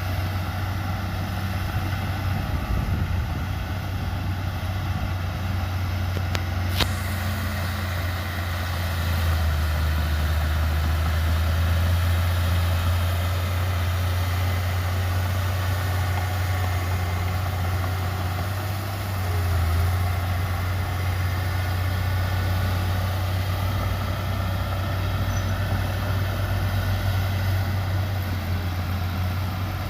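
Diesel engine of heavy earthmoving machinery running with a steady low drone, pulling harder for a few seconds from about 9 seconds in. A single sharp click about 7 seconds in.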